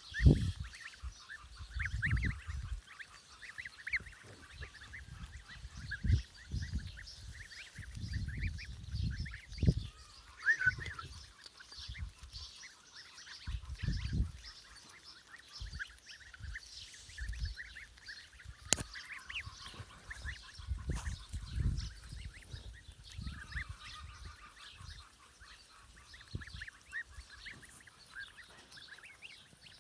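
A flock of domestic poultry calling, many short honking and quacking calls repeated throughout, with intermittent low rumbles.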